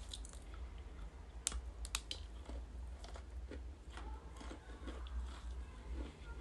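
Close-miked crunchy chewing: a few sharp crunches of biting about one and a half to two seconds in, then softer, irregular chewing, with a steady low hum underneath.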